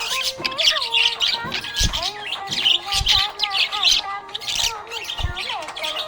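Budgerigars chirping and chattering in quick, continuous bursts, with a slow melodic tune underneath.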